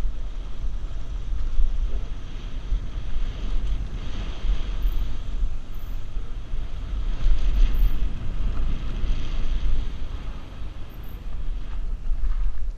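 Wind buffeting the microphone of a helmet-mounted GoPro during a downhill mountain bike ride, a heavy low rumble under a steady rushing noise of the descent.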